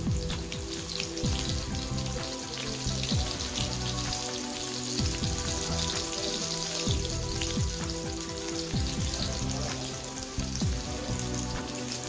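Finely chopped onion frying in hot oil with tempered mustard seeds and cumin in a kadhai, a steady crackling sizzle, under background music.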